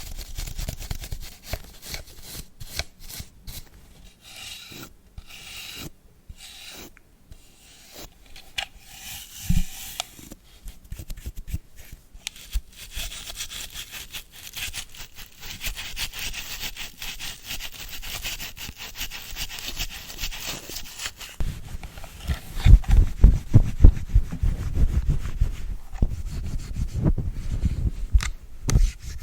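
Close-miked brush scrubbing and rubbing, in quick scratchy strokes, with a steadier hissing brush stretch in the middle. In the last third come heavier, deeper rubbing strokes right against the microphone.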